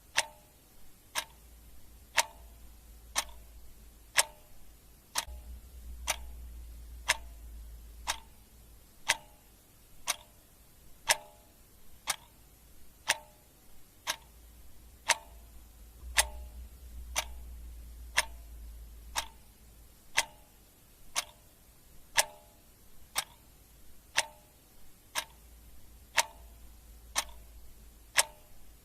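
Clock ticking steadily, about two ticks a second, with a louder tick and a softer tock in turn.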